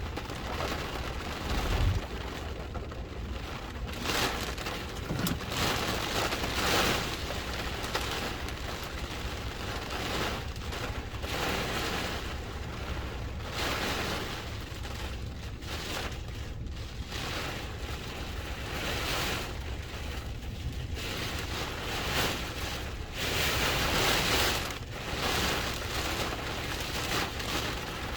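Hurricane wind and heavy rain, a dense rushing noise that swells and eases in gusts every few seconds.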